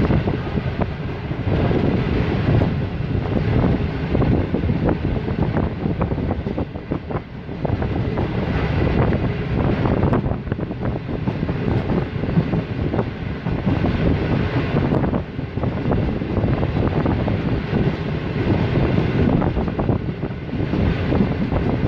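Passenger coach of the Awam Express running at speed, heard from inside: a steady rolling rumble of wheels on the rails with irregular clicks and clatter, and wind buffeting the microphone.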